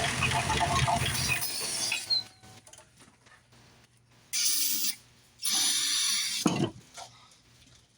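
1995 Mustang GT's 4.6-litre V8 being cranked on the starter, cutting off about two seconds in, with the car not getting fuel. Two short hissing bursts follow, then a single low thump near the end.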